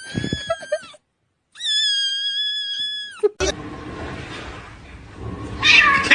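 A kitten giving two long, high, steady meows, each dropping in pitch as it ends. Then comes a noisier stretch with a short, louder sound near the end.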